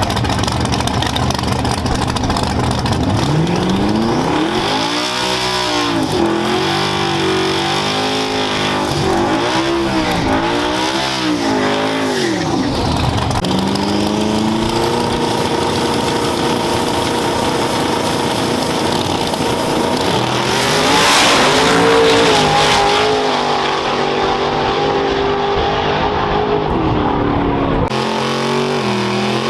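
Race truck engine revved several times, its pitch rising and falling with each blip, then running more steadily, with a louder surge about twenty seconds in.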